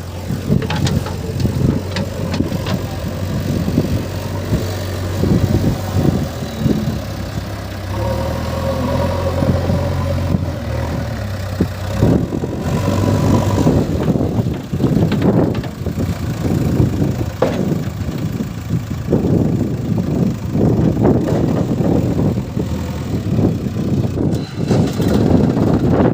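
Diesel engine of a JCB 3DX backhoe loader running under work, revving up for a few seconds partway through, with repeated knocks and clatter.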